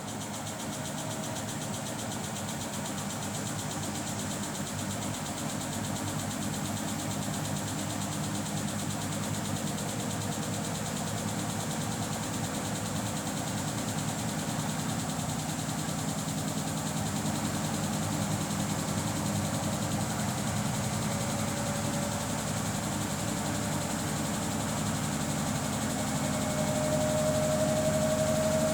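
Samsung Bespoke AI WW11BB704DGW front-loading washing machine spinning, with a clicking noise during the spin. It gradually gets louder, and a motor whine rises in pitch near the end as the drum speeds up.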